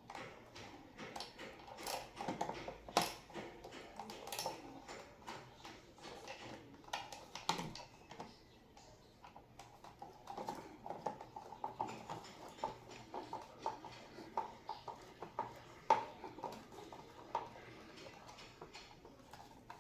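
A small hand file scraping rust off a metal end of an impulse heat sealer, in quick, irregular short strokes and taps. The rust is being cleaned off because the owner hopes it is why the sealer isn't heating.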